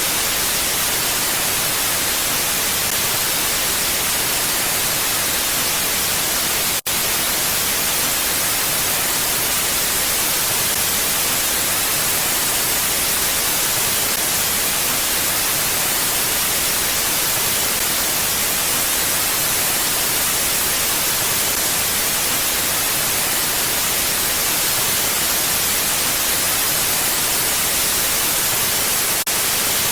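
Steady, even hiss of a mountain wind ambience, with no gusts or swells; it cuts out for an instant about seven seconds in.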